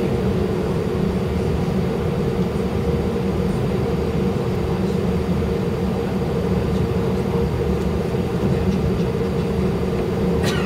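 Inside the cabin of an Airbus A319 taxiing: a steady low rumble of the engines at taxi power with a steady hum over it. A short click comes near the end.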